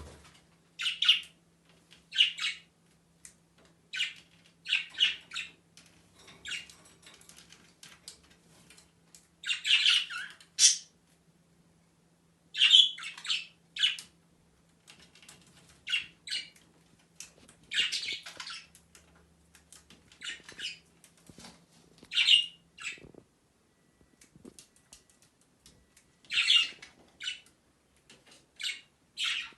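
Pet lovebirds giving short, high, sharp calls at irregular intervals, often one or two a second, with a few quiet pauses of a couple of seconds.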